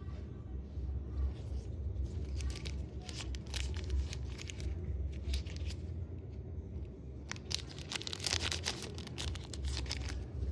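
Crinkling and rustling of packaging being handled and opened, in irregular bursts, the loudest near the end, over a low steady hum.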